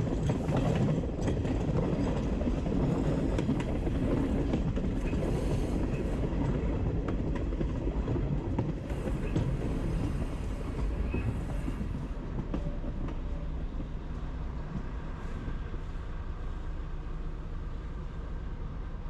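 Train running on the rails, a steady rumble with scattered wheel clicks, slowly dying away toward the end.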